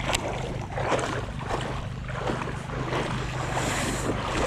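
Creek water sloshing and running, with irregular swishes and wind rumbling on the microphone.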